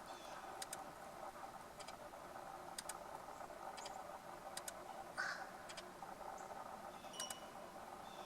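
Faint camera shutter clicks, single and in quick pairs, every second or so, over a steady background hum. A brief higher sound comes about five seconds in.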